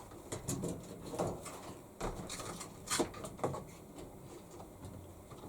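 Scattered clicks and knocks of plastic washing-machine parts being handled during disassembly, about five separate taps over a low rustle.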